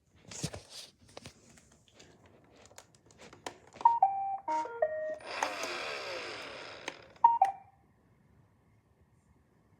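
Roomba robot vacuum clicking, then playing a short series of electronic beep tones stepping down in pitch. A motor whir follows with its pitch falling as it winds down, and one last short beep near the end.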